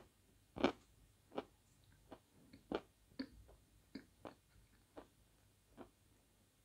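Lumps of natural Svetogorye eating chalk being chewed with the mouth closed: dry, irregular crunches about one to two a second, loudest in the first three seconds and growing fainter.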